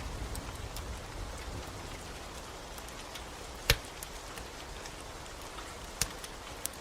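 Steady rain with a few sharp pops of a crackling wood fire, the loudest about halfway through and two more near the end.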